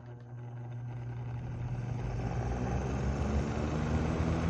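Small Duracraft box fan with a C-frame motor starting up on high speed: the motor hum and the rush of air from the blade build up steadily as it spins up.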